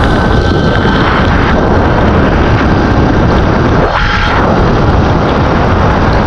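Heavy wind buffeting a GoPro's microphone at riding speed, mixed with the hiss of rain and tyre spray on a wet road, briefly easing about four seconds in. A thin steady whine sits over the noise.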